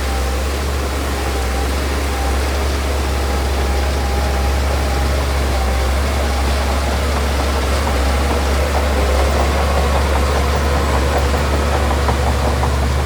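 Heavy diesel engine of earthmoving machinery running steadily with a deep, low drone. A fast rattle joins in over the second half.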